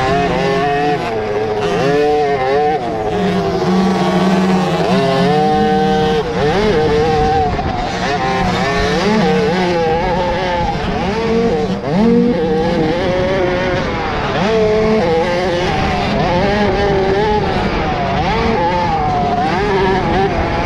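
Several 50cc youth motocross bike engines racing together. Their pitches rise and fall as the riders open and close the throttle, overlapping throughout.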